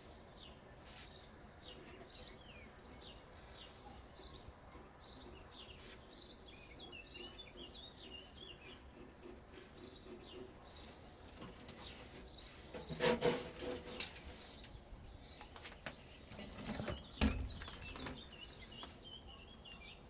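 Small birds chirping over a quiet background. A few sharp knocks and a short clatter come about two-thirds of the way through and are the loudest sounds.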